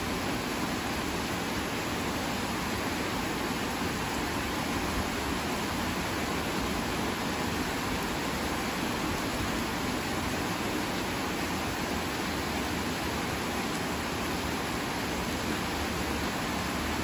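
Heavy rain falling in a steady downpour, a dense, even hiss that holds constant throughout.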